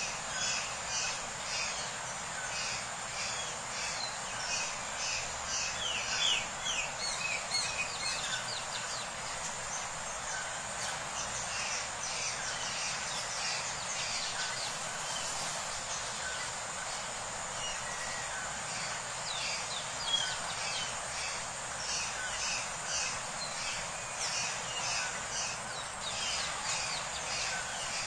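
Birds chirping: many short, rapid calls overlapping, over a steady background hiss.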